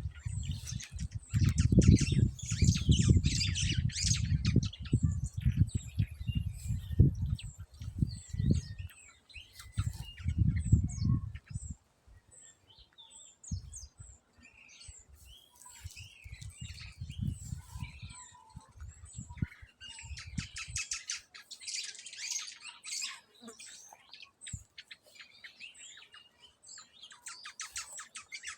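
Small birds chirping and squawking, with several runs of rapid chattering calls. Through the first twenty seconds, irregular low rumbling on the microphone is louder than the birds.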